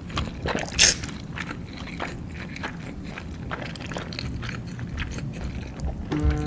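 ASMR mukbang eating sounds: a bite about a second in, then chewing with many small wet mouth clicks, and a short hummed "mm" near the end.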